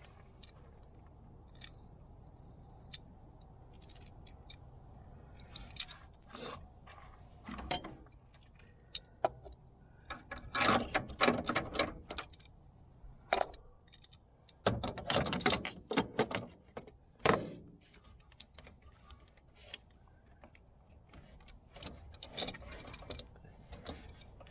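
Metal clinking and rattling in bursts, with scattered single clicks between them, typical of hand tools and metal parts being handled during car work.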